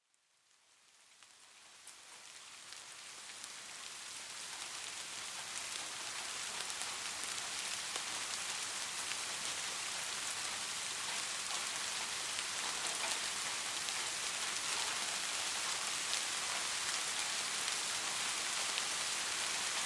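Steady rain falling, fading in from silence over the first several seconds, with fine scattered drop ticks through the hiss.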